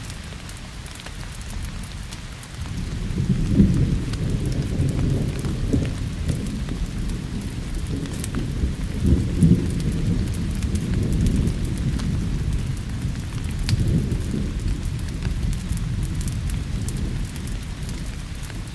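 Rolling thunder over steady rain: a deep rumble builds about two and a half seconds in and swells several times, while the rain hiss and scattered small pops carry on underneath.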